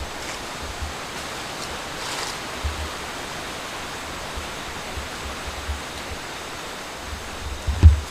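Strong wind blowing steadily through forest trees, with gusts buffeting the microphone in low rumbles and one heavy low thump near the end.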